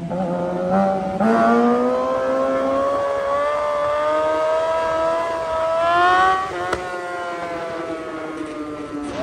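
Motorcycle engine under power, its pitch climbing slowly as it accelerates. About two-thirds of the way through the pitch drops suddenly and the engine runs on lower and quieter.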